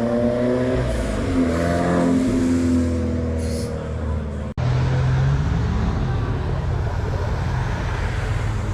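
Car engines running in two short clips joined by a cut. The first is a steady engine note that sags slightly in pitch; the second is a lower engine note that rises briefly in a small rev.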